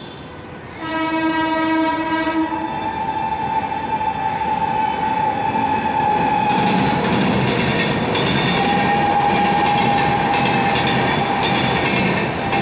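Express train's locomotive horn sounding shrill and long, starting about a second in and held for several seconds. Then the train passing at speed, wheels clattering over the rail joints, with the horn sounding again through the second half.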